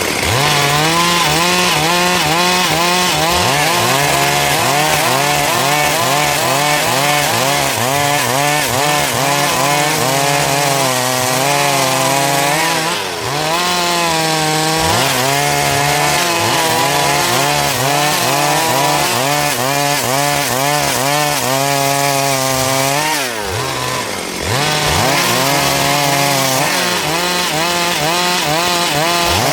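Stihl MS382 two-stroke chainsaw cutting through dry wood, its engine speed wavering under load. The revs drop and recover twice, about 13 seconds in and again about 23 seconds in.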